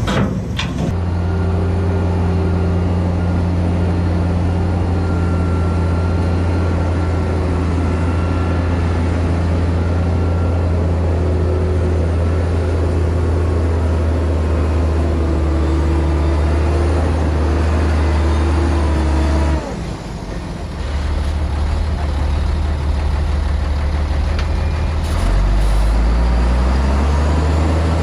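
Heavy diesel earthmoving machinery running steadily under load. The engine note drops briefly about twenty seconds in, then picks up again and rises in pitch near the end.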